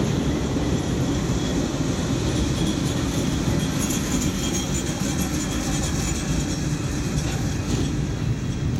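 Diesel locomotives of a double-stack intermodal freight train passing close by with their engines running, then the container cars rolling on the rails, a steady low rumble with a constant hiss above it.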